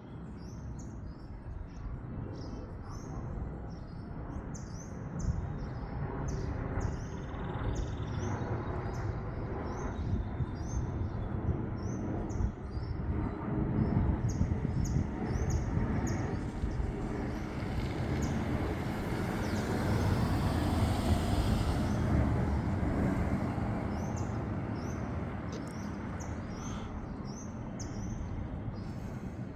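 Boeing 737 MAX 8 jet engines (CFM LEAP-1B) rumbling past, growing louder with a rushing whine that peaks about two-thirds through and then slowly fading. Small birds chirp repeatedly throughout.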